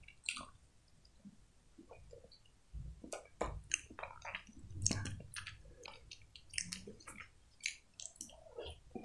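Chewing a mouthful of soft stewed eggplant in tomato sauce (imam bayildi): wet, squishy mouth sounds with many short smacks and clicks.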